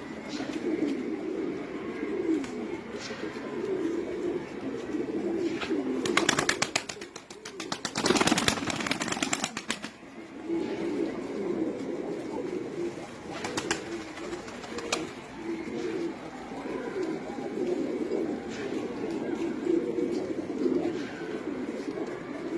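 A flock of domestic pigeons cooing steadily together. About six and eight seconds in come two short bursts of rapid clattering.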